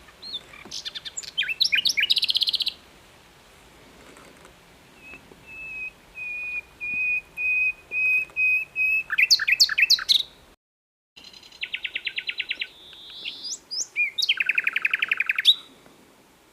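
Common nightingale singing in separate phrases: fast runs of varied notes, then a series of repeated whistled notes that grows louder, then rapid rattling and buzzy trills. There is a brief cut to total silence about halfway through.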